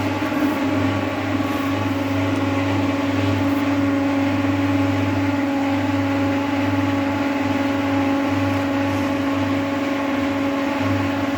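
Whirlpool washing machine on its spin cycle, the drum turning at a steady speed with a constant whine over a low hum.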